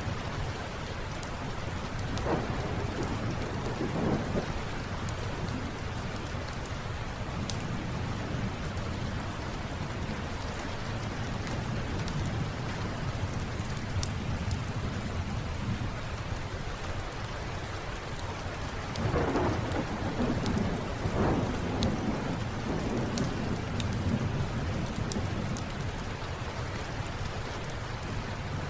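Steady rain with thunder rolling twice, a few seconds in and again for several seconds past the middle, and sharp little crackles from a wood fire scattered throughout.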